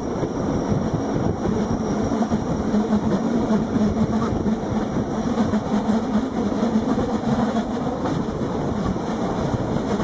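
Rhaetian Railway electric train running on the track: a steady rumble with a low hum.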